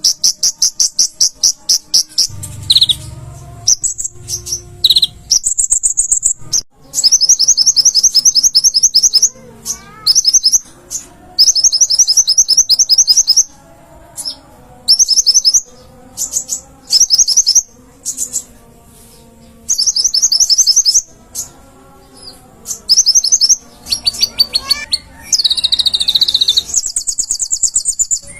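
Konin (kolibri ninja sunbird) singing non-stop in loud, rapid high trills of fast-repeated notes, in bursts of a second or two with short pauses between. It is a masteran recording used to tutor caged songbirds.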